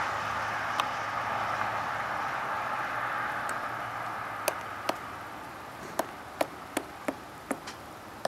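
A woodpecker pecking and chiselling at a rotten tree stump for grubs: irregular sharp taps, a few early and coming quicker in the second half, over a steady background hiss that slowly fades.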